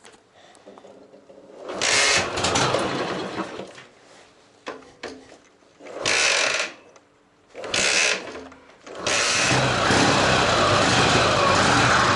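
Ural sidecar motorcycle's flat-twin engine being started cold on the choke after standing for a week: three short bursts of cranking, then it catches about nine seconds in and keeps running.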